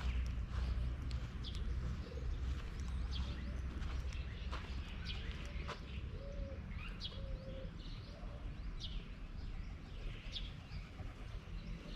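Birds calling: short, sharp downward chirps repeated every second or so, with a few brief low cooing notes about halfway through, over a steady low rumble.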